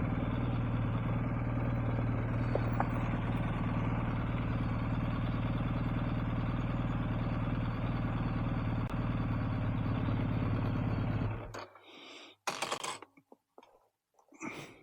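BMW R1250GS's boxer-twin engine running steadily, then stopping suddenly about eleven seconds in. A few short knocks and rustles follow.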